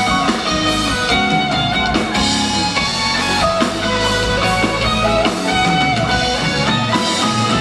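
Live pop band playing an instrumental passage of a ballad: guitar over drums, with no singing.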